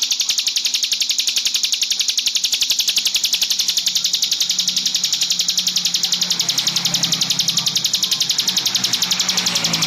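A continuous high, rapidly pulsed trill, about ten even pulses a second, from a recorded songbird training track. A lower droning sound joins in about halfway through.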